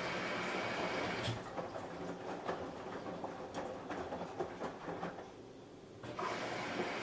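Samsung Eco Bubble washing machine running, with a steady hiss of water filling. The hiss cuts off about a second in, gives way to a few light clicks and knocks, and comes back near the end.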